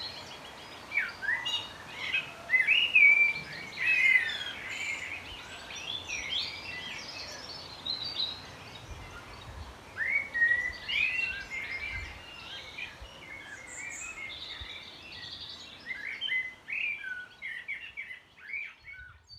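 Garden birds chirping and calling in clusters of short, gliding whistled notes, busiest in the first few seconds, again around ten seconds in and near the end.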